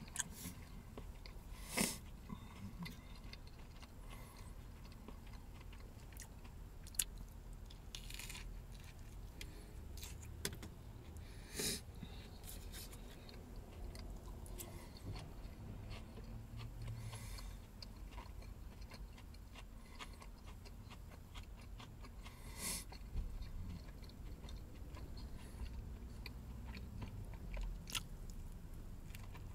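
A man chewing a burger with his mouth close to the microphone, with scattered short wet smacks and clicks and a fresh bite near the end.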